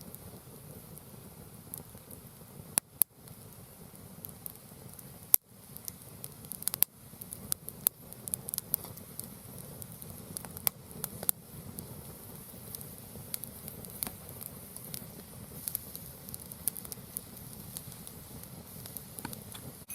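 Mixed firewood burning, crackling steadily with sharp pops, a few louder cracks about three and five seconds in.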